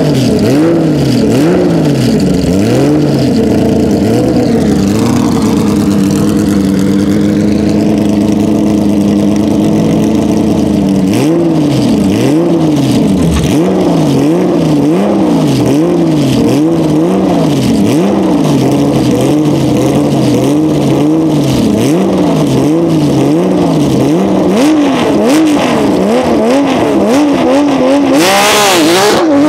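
Porsche 997 GT3 rally car's 3.6-litre flat-six revved at standstill through its twin exhaust, blipped up and dropping back about once a second, with a few seconds of steady running in between.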